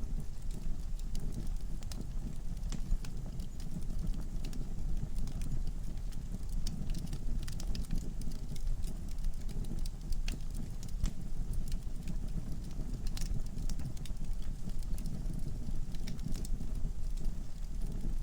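Wood logs burning in a fireplace: a steady low rumble of flame with frequent sharp crackles and pops scattered irregularly throughout.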